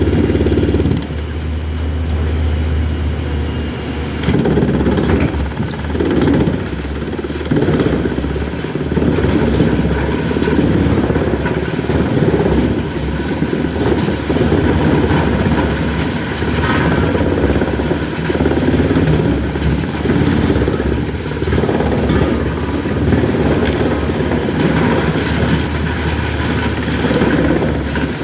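Heavy machinery engine running, its load and note rising and falling unevenly over a steady low hum.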